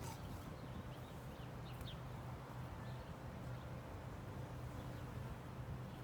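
Honeybees buzzing in a steady low hum around an open hive, with a few faint bird chirps in the first two seconds.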